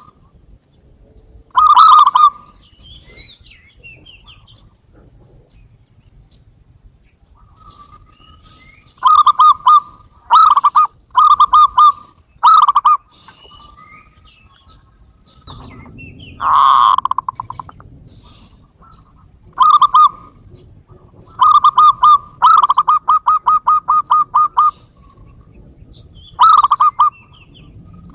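Zebra doves calling: repeated bursts of quick, evenly pitched staccato coos separated by pauses, one run of about a dozen rapid notes in the second half. A different, swelling call sounds once a little past the middle.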